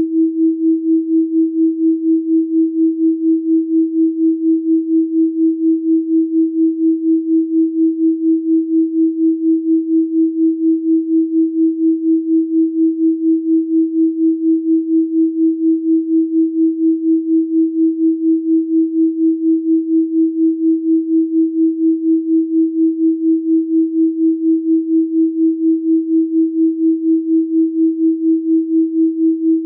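A steady pure sine tone at 324 Hz, pulsing evenly in loudness a few times a second, in the manner of a binaural-beat track.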